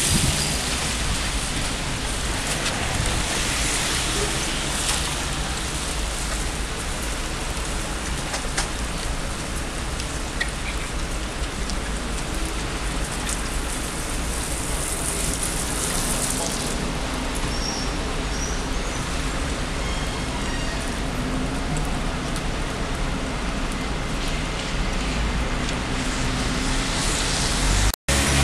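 Steady rain falling on a wet city street, with the hiss of traffic on the wet road; the sound cuts out for a moment near the end.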